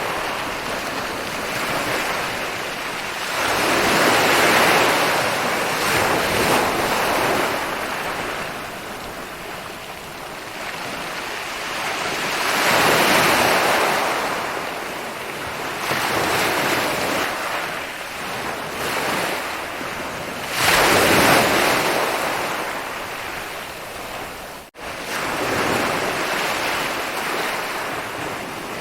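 Ocean surf: waves break and wash up the shore in slow swells roughly every eight seconds, each one louder then fading back to a hiss. The sound drops out for an instant near the end.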